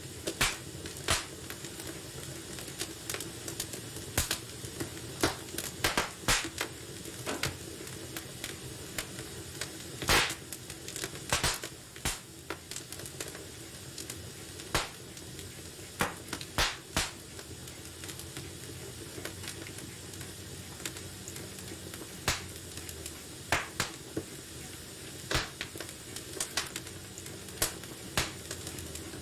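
Wood fire crackling in a fireplace: irregular sharp pops and snaps over a steady low hiss, with the loudest pop about ten seconds in.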